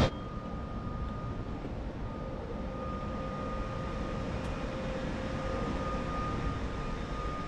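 Steady low hum and rumble from a stationary electric train, with a faint steady high whine running through it.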